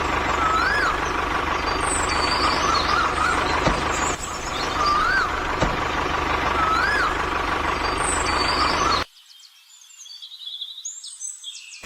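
A steady, loud noise with a faint constant tone in it, and short rising-and-falling bird chirps every second or two on top. The noise cuts off suddenly about nine seconds in, leaving only faint high chirps.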